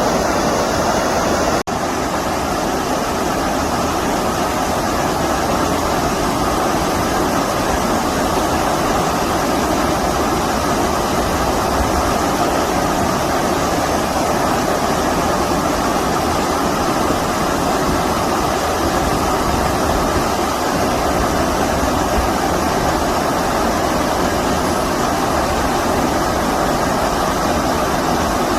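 Stream water rushing steadily over rocks, a loud even rush that cuts out for an instant about two seconds in.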